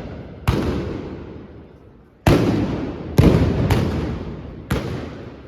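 Trabucs, Catalan blunderbusses, firing blank black-powder charges: five loud blasts at uneven intervals, two of them in quick succession about three seconds in, each followed by a long echoing decay.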